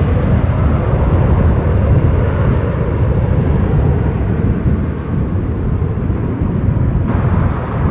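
Aircraft engine noise: a loud, deep rumble that slowly fades as the aircraft moves away.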